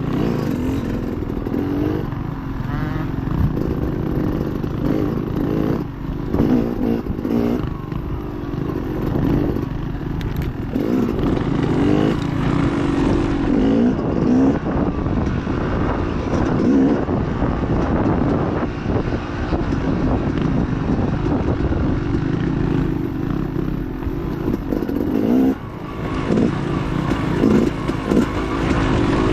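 Dirt bike engine revving up and down over and over as the bike is ridden hard along a rough woods trail, with rattling and clattering from the bike over the bumps.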